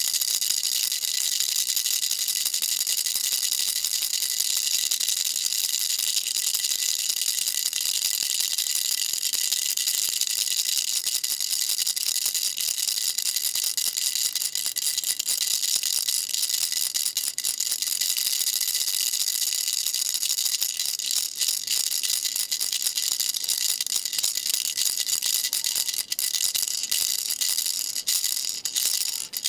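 Baby rattle shaken without pause: a dense, high rattle with a steady bright ringing in it, breaking off briefly a few times near the end.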